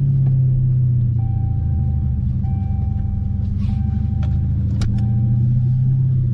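Dodge Charger Scat Pack's 392 Hemi V8 running steadily through an MBRP 3-inch race catback exhaust, a deep, even rumble. A faint high tone comes and goes in several stretches through the middle, with a few light clicks.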